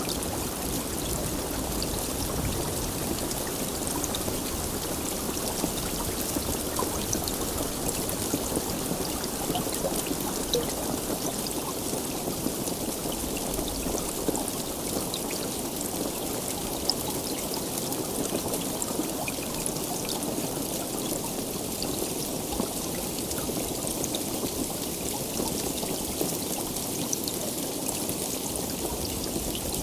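Steady heavy rain: a dense, even hiss with many small drop ticks scattered through it, and no thunder.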